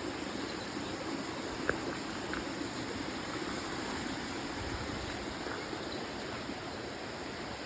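Water running steadily in a rainforest stream, an even rush with one faint click about two seconds in.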